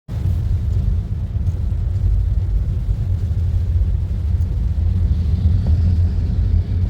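Steady, loud low rumble of a car on the move, heard from inside the taxi's cabin.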